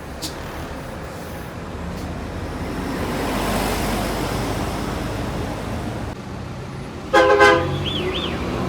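Highway traffic passing close by, swelling as a vehicle goes past, then about seven seconds in a short, loud blast of a vehicle horn with several tones sounding together.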